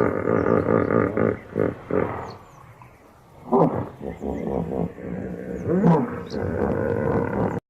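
A large animal making low, drawn-out calls: one long call at the start, then shorter ones a few seconds apart, with faint short high chirps over them. The sound cuts off abruptly just before the end.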